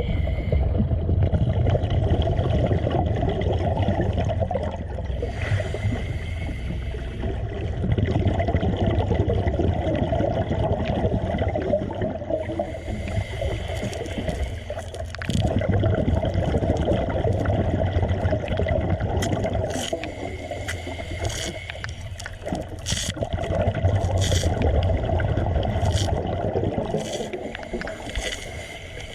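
Gurgling water noise that swells and eases about every seven or eight seconds, with a scatter of sharp clicks in the second half.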